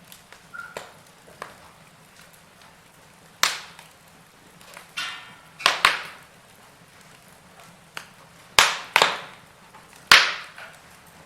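Wood fire crackling, with a handful of sharp pops spaced irregularly and a brief hiss about five seconds in.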